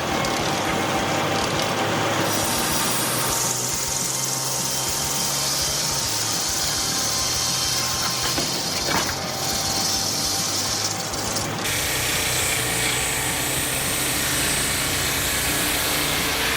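Sawmill saw blades running and cutting through logs over a steady machine hum. The sound changes abruptly about three and a half seconds in and again about twelve seconds in.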